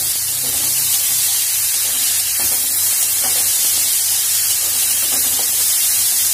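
Chopped tomato, onion and green chilli sizzling steadily in hot oil in a kadhai, stirred with a metal spatula that scrapes the pan a few times.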